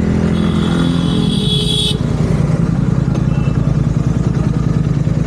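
Royal Enfield GT650's 648 cc parallel-twin engine running through aftermarket Red Rooster exhausts, a steady raw exhaust note. A high-pitched tone sounds over it for the first two seconds and cuts off suddenly.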